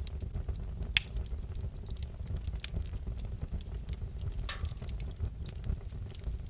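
Wood fire crackling: scattered sharp pops and snaps over a low steady rumble, with a louder pop about a second in.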